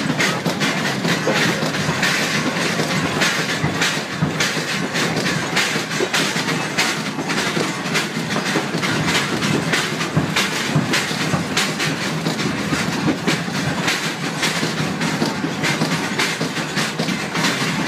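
Passenger train carriage running along the track, heard from inside by the window: a steady rumble full of rapid, irregular clacks and rattles from the wheels and the carriage body.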